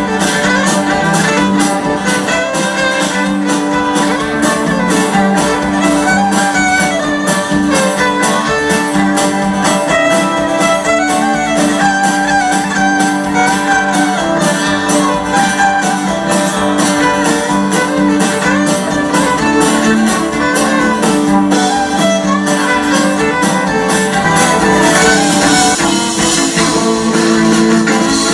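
Live band playing an instrumental passage, a fiddle carrying the melody over guitar, with a steady beat.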